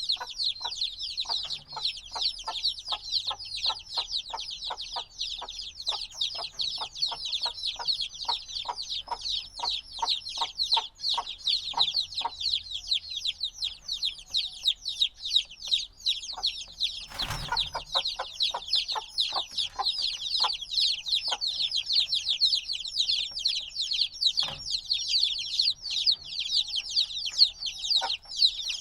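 A brood of chicks a few days old chirping nonstop, many short, high, falling peeps overlapping. A run of soft low ticks, about three a second, sounds underneath through the first dozen seconds, and a single knock comes about seventeen seconds in.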